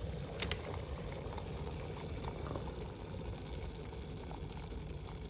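Water bubbling at the boil in a Philips HD9306 stainless-steel electric kettle, a steady noise, with a light click about half a second in.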